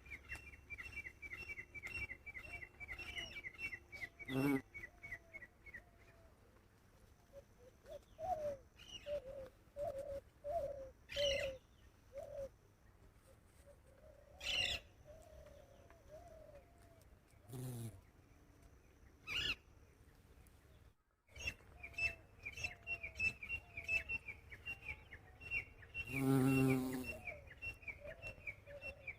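Wild birds calling. A fast run of short high notes at the start and again over the last third overlaps repeated lower notes, with loud rising calls every few seconds.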